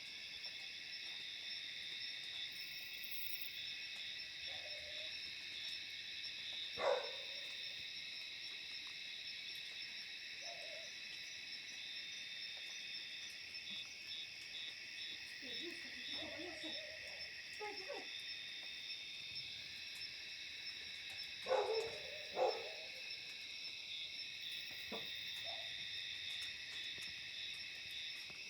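Steady high-pitched chorus of night insects, partly pulsing, with a few short low calls breaking in, the loudest about a third of the way in and twice in quick succession about three quarters through. No thunder is heard.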